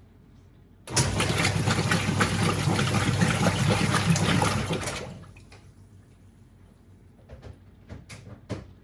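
Whirlpool 3RLSQ8033SWD top-loading washing machine giving a loud rushing noise with many small clicks, which starts suddenly about a second in, lasts about four seconds and fades out, followed by a few light knocks near the end.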